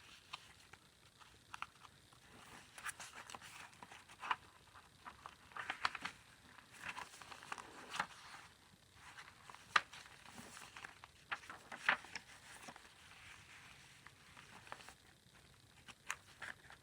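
Paper pages, tags and a small booklet rustling and crinkling as they are handled and unfolded, with scattered light clicks and taps. The sharpest taps come about two-thirds of the way in.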